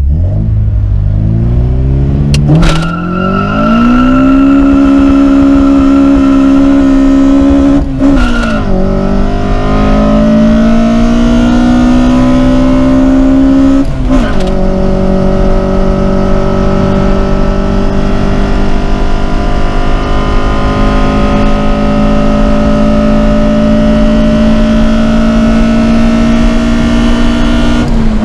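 Built Toyota 4A-GE 20-valve 1.6-litre four-cylinder in an AE82 Corolla, pulling hard through the gears, heard from inside the cabin. The engine note climbs in each gear and drops at upshifts about 3, 8 and 14 seconds in and again near the end, climbing more slowly in each higher gear.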